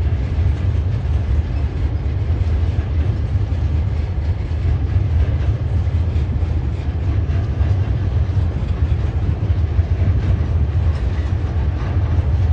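Freight wagons loaded with logs rolling over a rail bridge: a steady low rumble with dense, rapid wheel clatter.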